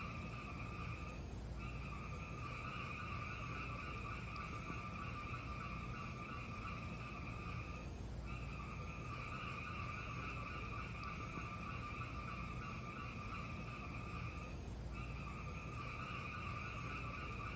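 Steady hiss of a fire, breaking off briefly about every seven seconds, with faint crackles.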